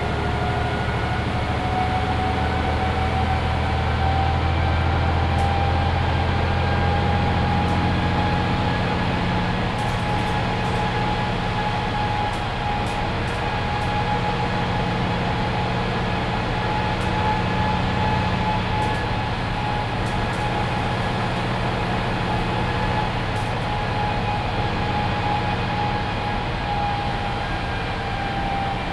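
Mercedes-Benz Citaro C2 hybrid city bus driving, heard from inside the cabin: a steady diesel engine rumble under a whine that rises slowly as the bus picks up speed, holds, and eases off near the end.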